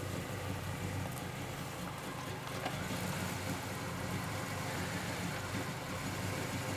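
A vehicle engine running steadily at low revs, a low even hum with no revving.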